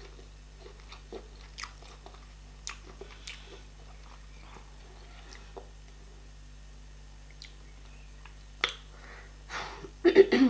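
Close-miked chewing of a mouthful of garri fufu and okra soup, with soft wet clicks and lip smacks. A few louder mouth sounds come near the end.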